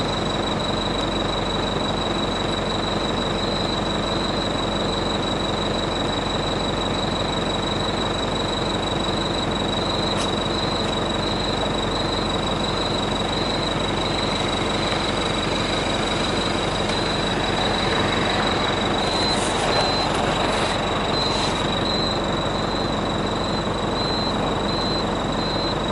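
Truck's diesel engine running steadily with a dense, even rattle, heard from inside the cab, with a steady high-pitched whine over it.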